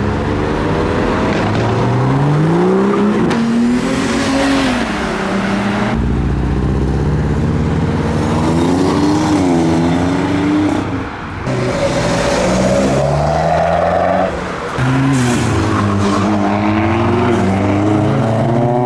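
Modified cars revving and accelerating away one after another, their engine notes climbing and dropping several times.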